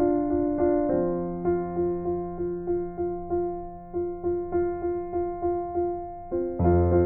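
Background piano music: a gentle electric-piano melody of evenly repeated notes, about two a second, over held chords, with the chords changing about a second in and growing fuller near the end.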